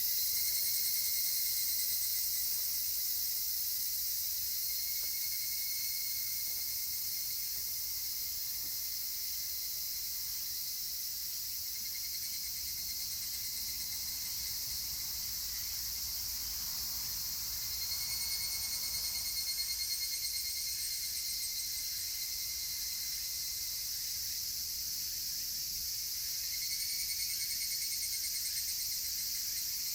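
A steady, high-pitched chorus of cicadas, with evening cicadas (higurashi) calling over it. Their trilling calls come about five times, each lasting a few seconds.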